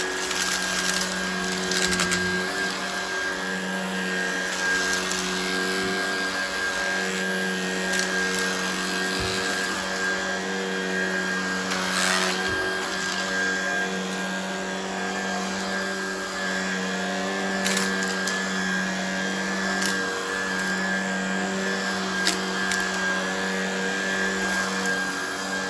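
Shark Vertex cordless stick vacuum running steadily on carpet mode at normal power, its motor humming under a hiss of air, with a few sharp clicks of debris being sucked up.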